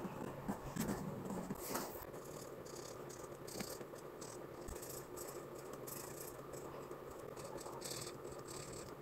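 Irregular light rustling, scratching and small taps of paper and sticker materials being handled during planner decorating.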